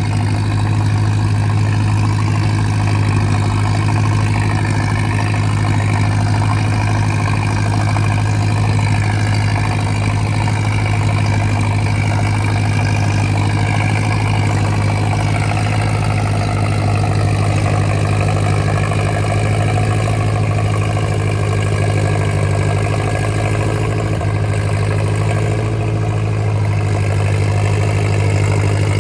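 Antique farm tractor engine running at a steady, even speed with a deep, constant low hum.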